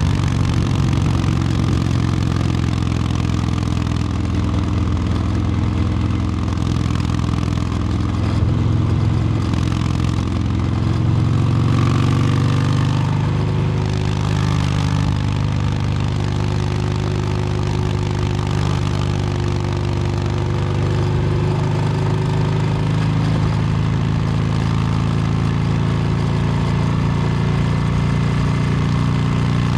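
Exhaust of a 2022 Harley-Davidson Low Rider S (FXLRS) Milwaukee-Eight 117 V-twin running through an S&S Superstreet 2-into-1 exhaust while riding, with the engine's pitch rising and falling a few times with the throttle.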